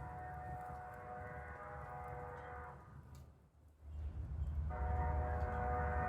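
Train horn sounding two long blasts, each a chord of several steady notes, with a short gap between them. The low rumble of the train rises under the second, louder blast.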